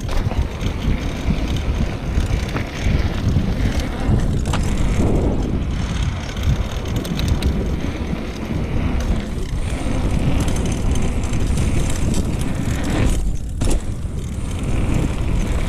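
Mountain bike riding over a dirt trail, recorded on an action camera: continuous tyre rumble and rattling from the bike, with wind buffeting the microphone.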